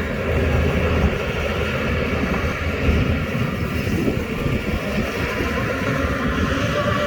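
Shantui DH17 bulldozer's diesel engine running steadily, a continuous heavy-machine rumble with no distinct knocks or pauses.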